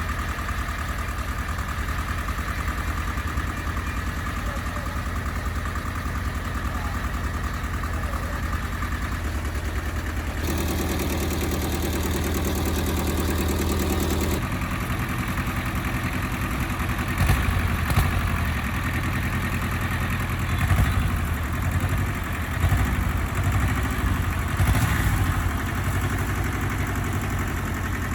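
A motor running steadily, with a shift in its sound about ten seconds in and again a few seconds later. In the second half, irregular metallic clanks and knocks sound over it.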